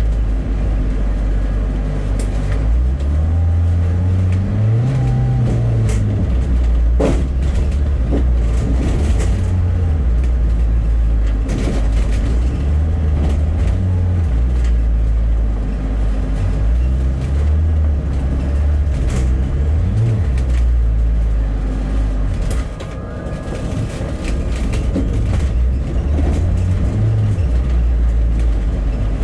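Rail replacement bus on the move: low engine and road rumble whose pitch rises and falls several times as the bus speeds up and slows, with a few knocks and rattles, the sharpest about seven seconds in.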